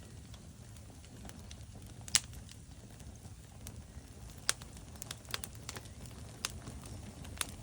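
Log fire burning in a fireplace: a steady low rumble of flames with sharp crackles and pops from the burning wood. The loudest pop comes about two seconds in, and smaller pops come more often in the second half.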